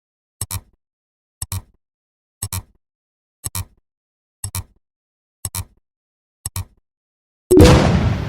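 Clock-like ticking sound effect: a sharp double click once a second, seven times. Near the end a much louder blast-like sound effect bursts in and fades out over about a second and a half.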